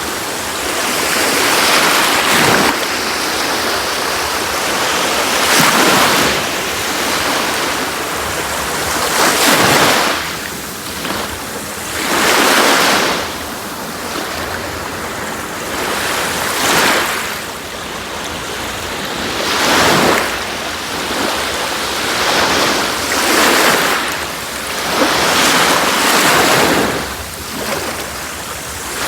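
Sea waves breaking and washing on a beach, each wave swelling and falling away every three or four seconds over a continuous hiss of surf.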